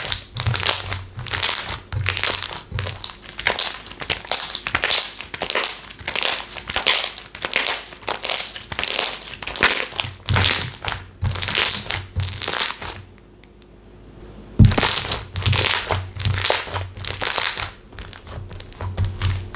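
Texture slime being squeezed and pressed by hand: a steady run of short squishing, crackling sounds about two a second. They stop for about a second and a half past the middle and start again with a sharp tap.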